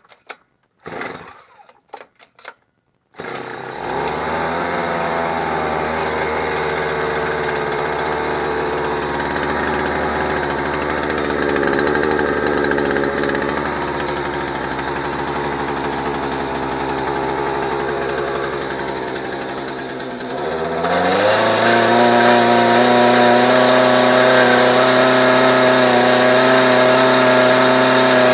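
Chinese-made outboard motor with a doubled muffler starting and running: a few short noises, then the engine catches about three seconds in and runs steadily. Around twenty seconds in it speeds up and holds the higher speed.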